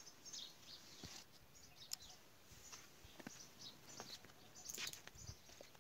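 Faint, scattered bird chirps over near-silent outdoor background, with one sharp click about two seconds in.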